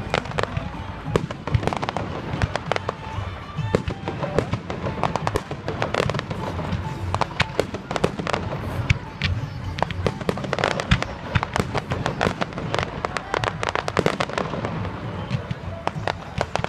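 Fireworks display going off: a continuous run of bangs and crackles, several a second, some much louder than others, over a low rumble.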